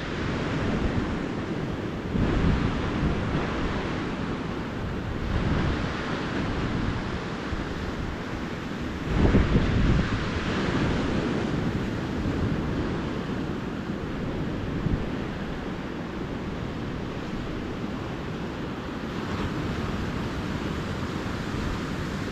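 Calm ocean surf washing onto a beach: a continuous rush of water that swells every few seconds as waves break, the biggest surge about nine seconds in. A low rumble of wind on the microphone runs underneath.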